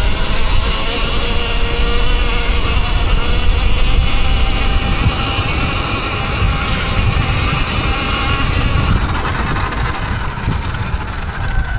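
Electric dirt bike motor whining, its pitch rising and falling with the throttle, over heavy wind rumble on the microphone while riding.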